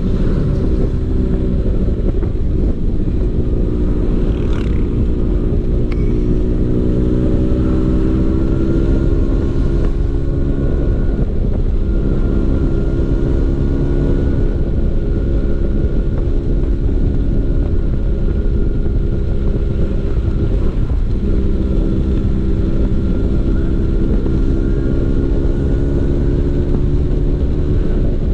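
Vespa PX 150's two-stroke single-cylinder engine running through a DRC Victory racing exhaust while riding, holding a fairly steady pitch. Its revs drop briefly about a third of the way in and again about three quarters through.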